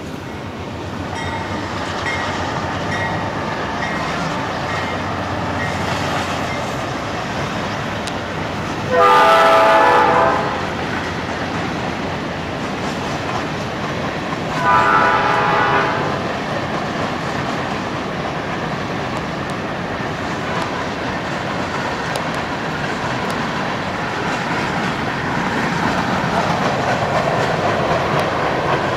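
Norfolk Southern freight train running past with a steady rumble, its locomotive horn sounding twice: a longer blast about nine seconds in and a shorter one about six seconds later. Near the end the loaded hopper cars pass close, and the wheel noise grows louder.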